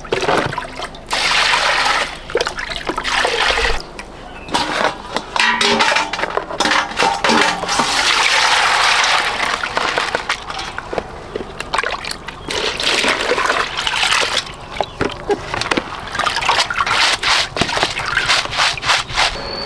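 Water splashing in irregular bursts with short pauses and small knocks between them.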